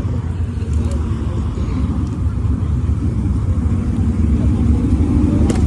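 Car engine running close by with a deep, low exhaust note, growing a little louder near the end.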